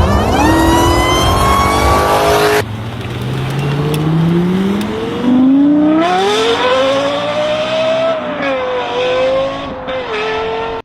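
Car engine revving up hard, its pitch climbing fast, cut off abruptly about two and a half seconds in. Then another car engine accelerating, its pitch climbing steadily, then levelling off and dipping a few times near the end.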